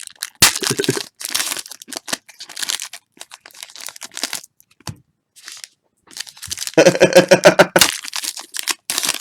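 Trading-card pack wrappers being torn open and crinkled, in scattered rustling bursts. A louder sound with a pitch to it comes about seven seconds in and lasts about a second.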